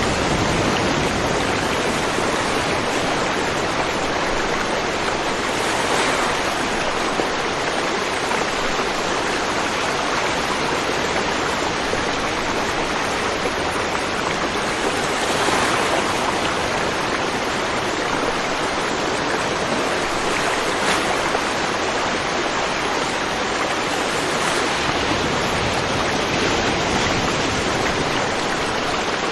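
River water rushing steadily over rocks, a continuous even flow with small swells.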